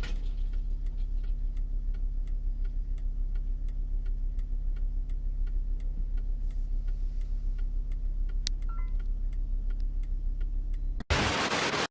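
A car's engine and road noise droning steadily, heard from inside, with a regular ticking about two to three times a second over it. About eleven seconds in the sound cuts out for an instant and gives way to a loud burst of noise.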